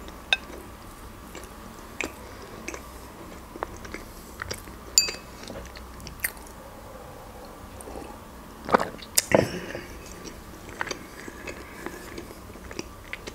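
Close-miked chewing of a pâté sandwich: soft, sparse wet mouth clicks, with a louder cluster of sounds about nine seconds in.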